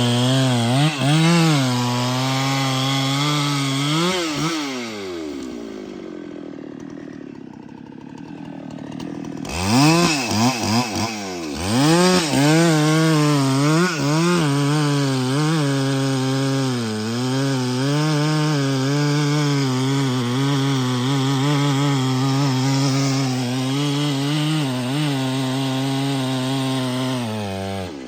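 Chainsaw running at full throttle, its pitch wavering as it cuts into wood. About four seconds in it drops back to a low idle, then is revved up in several quick blips and held at full throttle again, dipping briefly near the end.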